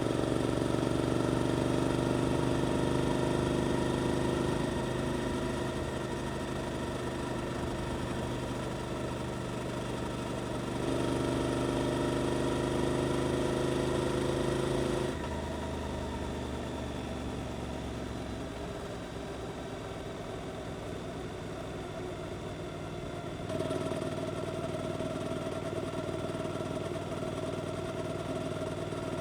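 Suzuki GSX-8S parallel-twin engine running through an Arrow aftermarket exhaust under changing throttle: pulling harder at the start, easing off a few seconds in, picking up again in the middle, dropping back about halfway, and opening up again near the end.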